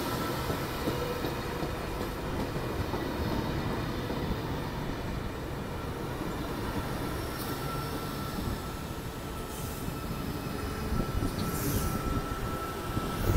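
Double-deck electric passenger train rolling past a station platform: a steady rumble of wheels on rails with a thin, steady high whine above it.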